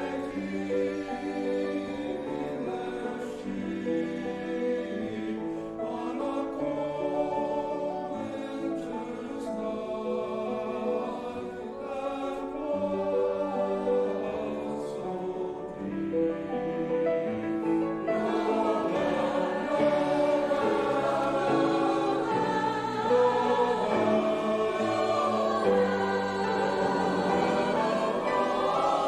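A choir singing with music, held chords that swell louder about two-thirds of the way through.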